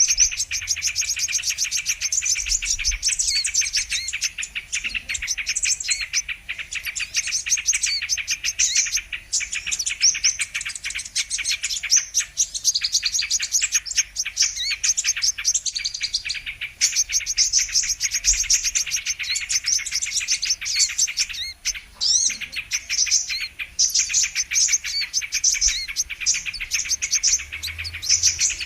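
Sunbirds (kolibri kelapa, the brown-throated sunbird) calling: a dense, nearly unbroken stream of rapid high chirps and trills, with a couple of brief pauses.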